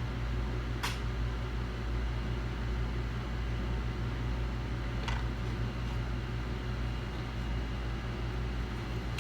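Steady low electrical hum and fan-like noise, with two faint clicks, one about a second in and one about five seconds in.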